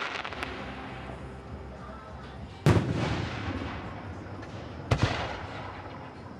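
Fireworks display: two sharp aerial shell bangs about two seconds apart, each followed by a fading crackle and rumble.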